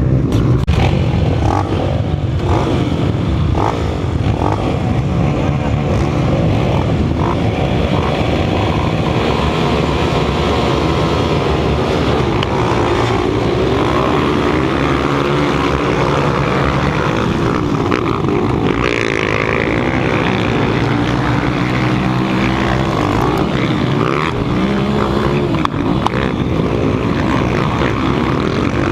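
Several 200 cc motocross motorcycles racing, their engines running loud and overlapping, revving up and down as the riders work the throttles.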